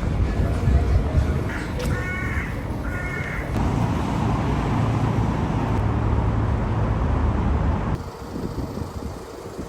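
A crow cawing several times in short harsh calls about two seconds in, over a steady low rumble of traffic. The rumble carries on and becomes quieter near the end.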